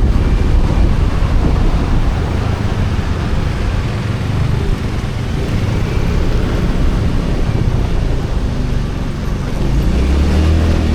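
Motorbike riding along: its engine is running under a rough, rumbling rush of wind and road noise. About ten seconds in, a steadier, deeper engine note comes through.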